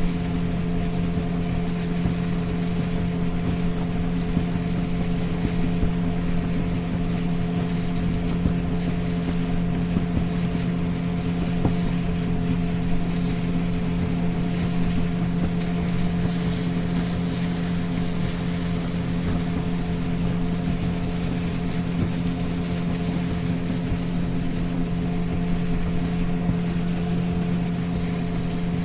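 Motorboat engine running at a steady, unchanging pitch, heard from on board, with an even rush of water and wind over it.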